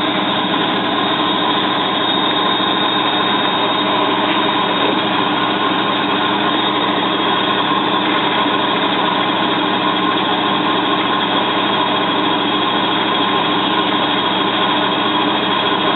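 Bosch WFF2000 washing machine spinning at a steady high speed on a 900 rpm spin: the motor and drum give a constant whine over a dense rushing hum, with no change in pitch.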